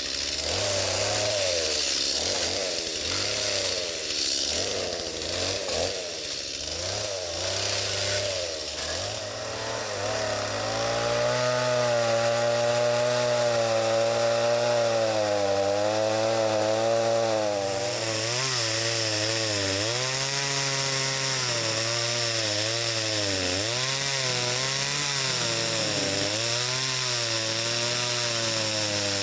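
Two-stroke chainsaw running and cutting wood, its engine pitch rising and falling with the load through the cut.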